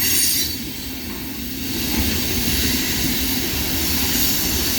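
Freight cars of a long mixed freight train rolling slowly past: a steady rumbling noise of steel wheels on rail, dipping slightly about a second in.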